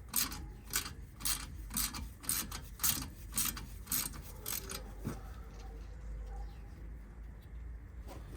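Hand ratchet wrench clicking as a bolt is turned, in short strokes about two a second, stopping about four and a half seconds in.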